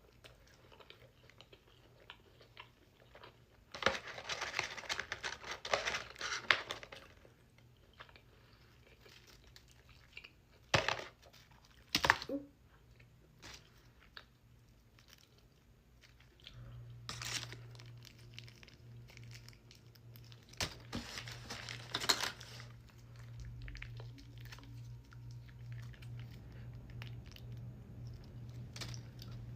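Close-miked eating: chewing and crunching with a food wrapper crinkling and tearing, loudest in a few seconds of rustling early on and in several sharp crackles after. A low steady hum comes in about halfway through.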